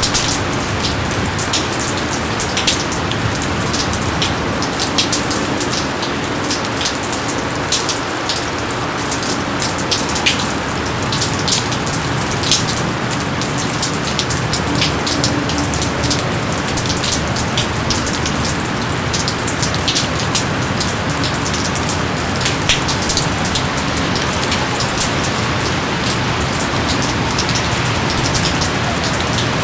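Steady heavy rain falling on foliage, a continuous hiss dotted with many sharp individual drops striking close by.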